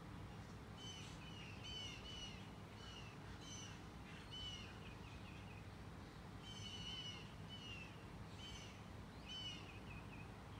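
Faint short bird calls, repeating every second or so and sometimes in quick pairs, over a low steady background noise.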